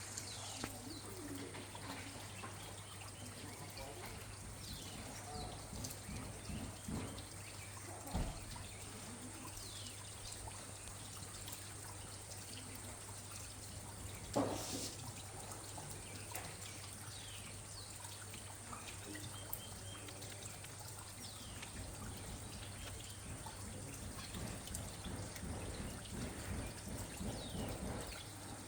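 Steady rain with water trickling and dripping, over a constant low hum. Two louder knocks stand out, about eight and fourteen seconds in.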